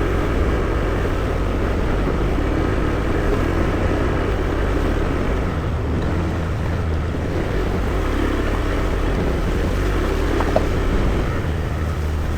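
Motor scooter being ridden at a steady speed: engine running with road noise and a steady low rumble.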